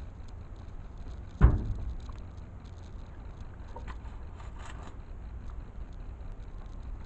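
A single loud thump about a second and a half in, over a steady low rumble, with a few faint ticks and rattles later.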